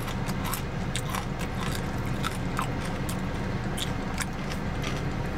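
Close-miked chewing of food, with irregular small wet mouth clicks, over a steady low hum inside the car cabin.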